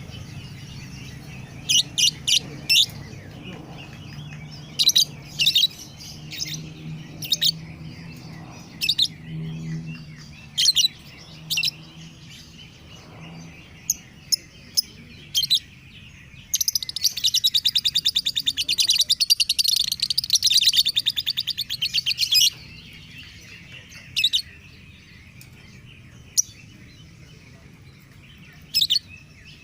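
Lovebird chirping: sharp, high calls, singly and in quick clusters, with a rapid chattering trill lasting about six seconds past the middle.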